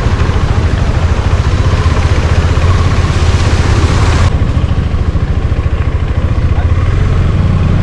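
A vehicle engine running close by, a loud, steady low pulsing, with a hiss over it that stops suddenly about four seconds in.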